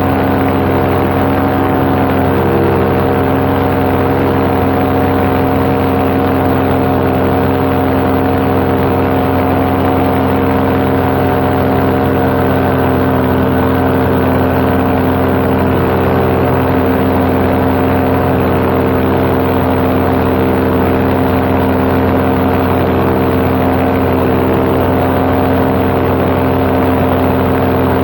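Paramotor engine and propeller running steadily at cruise power in flight, an even drone with no change in pitch.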